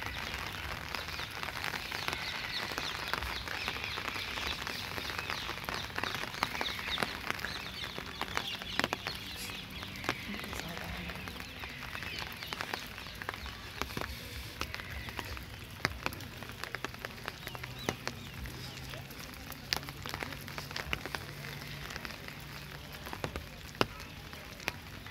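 Rain falling on a wet brick path and the trees above it: a steady hiss, heavier in the first half, with many sharp ticks of single drops close by.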